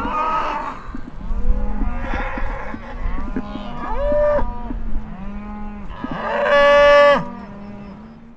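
Several cows mooing, calls overlapping, with the loudest long moo about two-thirds of the way through before the sound fades out.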